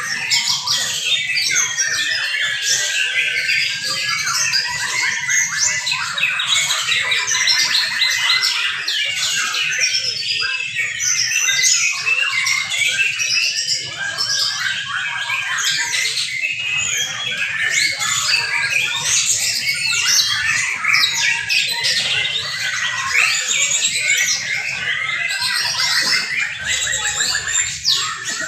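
Many young white-rumped shamas singing at once in competition, a dense, unbroken chorus of overlapping fast, varied phrases.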